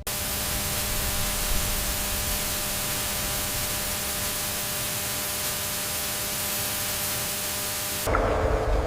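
Steady, even hiss like static with a faint steady hum under it. It starts abruptly and cuts off about 8 seconds in, replaced by a lower rumble.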